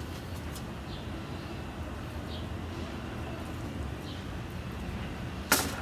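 Steady outdoor background with a low rumble and a few faint short bird chirps, then one sharp click near the end.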